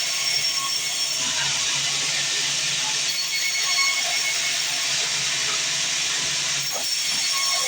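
Sawmill band saw cutting through a log: a steady hissing rasp with a faint high whine that fades in and out.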